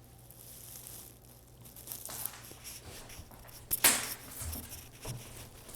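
Rustling and scuffling as a puppy lunges after a tug toy, with one sharp, loud crackle a little before four seconds in.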